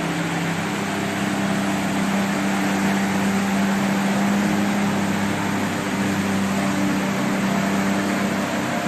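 Steady road traffic: vehicle engines and tyres running continuously, with a low engine hum.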